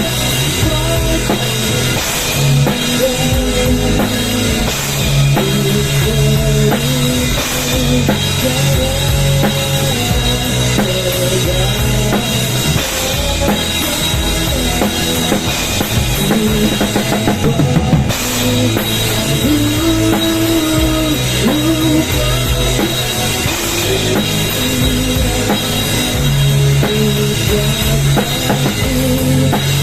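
Rock music with a drum kit and heavy bass, played loud over a PA sound system during a sound check.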